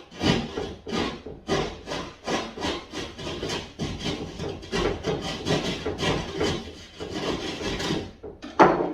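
Hand saw cutting drywall in quick back-and-forth strokes, about two to three a second, with a loud knock near the end.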